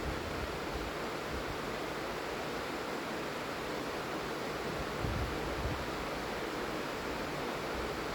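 Steady rain falling, an even hiss with no pauses. A brief low rumble comes about five seconds in.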